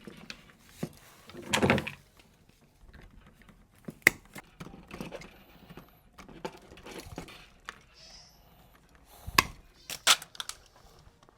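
Scattered knocks, clicks and light rattles of objects being handled. A heavier thump comes just under two seconds in, and sharp knocks follow near the four-second mark and twice near the end.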